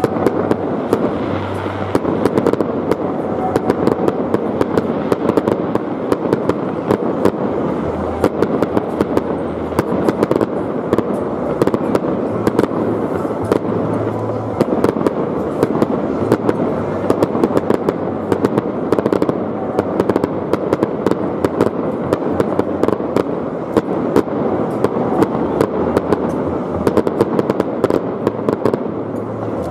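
Aerial firework shells bursting in rapid, continuous succession: many sharp cracks and bangs packed close together over a steady rumble, with crackling stars.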